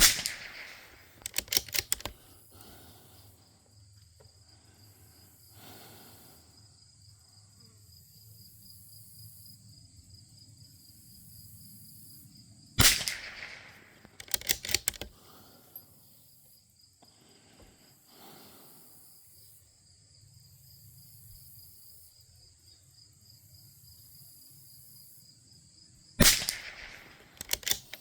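Three shots from a .22 LR rimfire bolt-action rifle (Bergara B14R), about 13 seconds apart, each followed a second or two later by a quick run of sharp clicks as the bolt is worked to chamber the next round.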